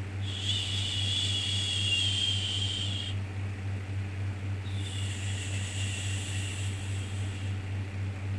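Repeated 'shhh' shushing sound for soothing a baby to sleep. Two shushes of about three seconds each, separated by a pause of about a second and a half, over a steady low hum.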